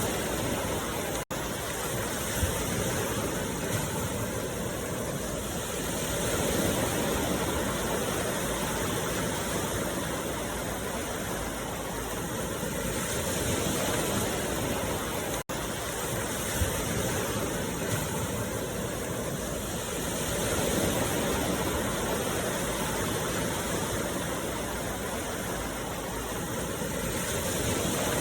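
A steady rushing noise, like running water or a waterfall, that slowly swells and eases about every seven seconds, with two brief dropouts, about a second in and about halfway through.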